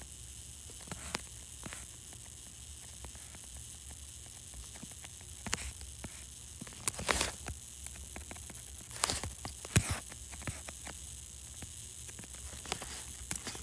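New York subway E train running between stations, heard from inside the car: a steady low hum with faint hiss, and scattered sharp clicks and knocks at irregular moments.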